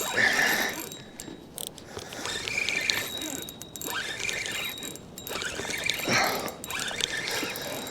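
Fishing reel being cranked, its gears and clicker ticking steadily as a fish is reeled in.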